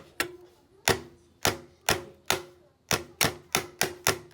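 Repeated sharp knocks on metal, about a dozen at an uneven pace of two to three a second, each leaving a brief ringing tone.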